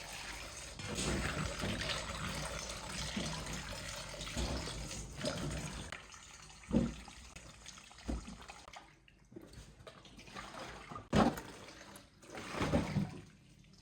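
Water running and splashing for about six seconds, then quieter, broken by a few short knocks and splashes.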